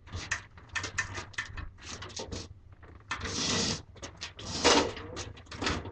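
Objects being handled and moved: a string of short knocks and clicks, with a longer scraping rush about three seconds in and another brief one a little later.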